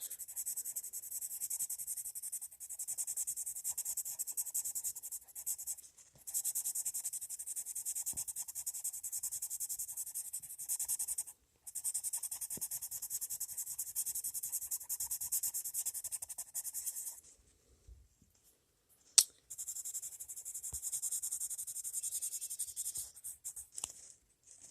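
Coloured pencil shading lightly on paper, a rapid scratchy stroking that goes on in long stretches with short pauses, the longest about three-quarters of the way in. A single sharp click breaks the pause.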